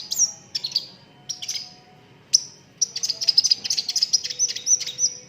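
Sunbird singing a vigorous, high-pitched song of quick sharp chirps in short bursts, then a long rapid run of notes near the end.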